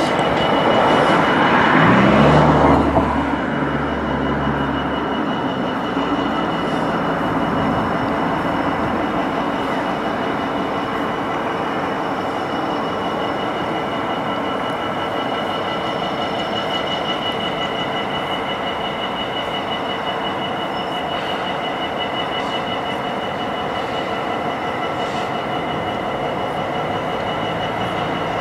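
Class 66 diesel locomotive in a freight yard, with steady high-pitched wheel squeal from rolling stock. A low engine drone strengthens about two seconds in and eases off after about five seconds.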